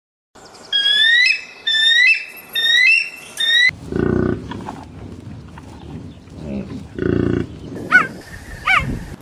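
A run of a bald eagle's high, rising piping calls. From about four seconds in, a Cape buffalo grunts low twice. Near the end, a cheetah gives short high chirps.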